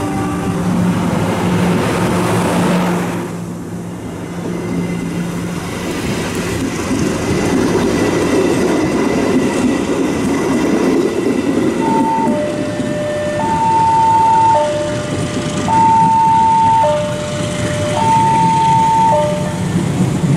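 Passenger train carriages rolling past close by, a steady rumble of wheels on the rails. From a little past halfway, an electronic level-crossing warning alarm sounds over it, two tones alternating high and low about once a second, warning road traffic that a train is crossing.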